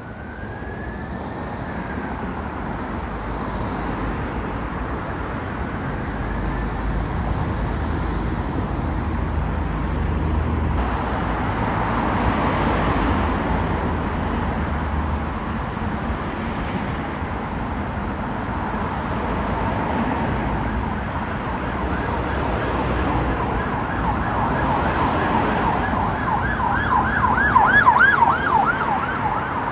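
Emergency vehicle siren on a passing response vehicle, with engine and road noise. It starts on a slow rising-and-falling wail, switches to a fast yelp in the last several seconds, and is loudest just before the end as the vehicle comes close.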